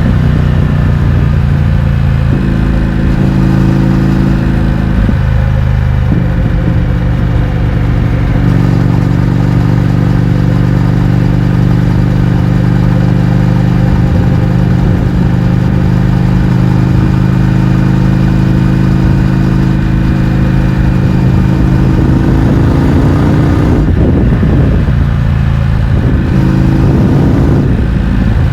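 Indian FTR 1200's V-twin engine running loud through an Akrapovič exhaust with the baffles removed, ridden on the road. The pitch steps a few times in the first six seconds, holds steady for a long stretch, then changes again near the end.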